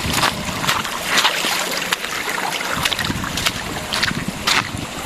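Rushing river water with wind on the microphone, broken by irregular sharp clicks or knocks.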